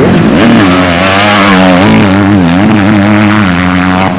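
Motocross motorcycle engines revving, their pitch rising and falling repeatedly.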